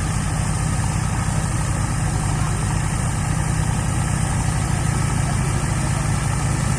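Heavy diesel engine idling steadily with a fast, even chug.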